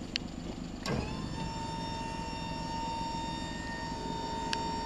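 Electric hydraulic pump of a mini truck's scissor-lift dump bed clicking on about a second in and running with a steady whine as it works the bed, over the truck's idling engine.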